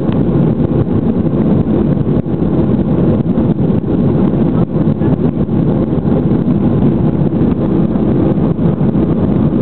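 Airliner's jet engines and rushing air during takeoff: a steady, loud, deep noise that holds level throughout.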